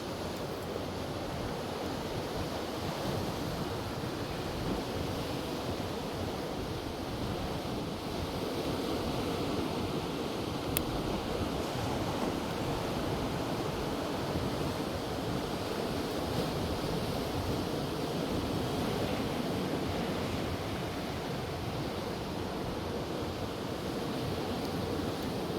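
Ocean surf washing steadily under strong wind, with wind buffeting the microphone in a low flutter. A single brief click about eleven seconds in.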